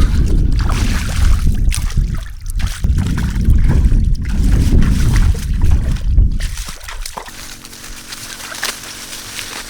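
Water sloshing and splashing over a heavy low rumble, which drops away about seven seconds in, leaving a faint steady hum.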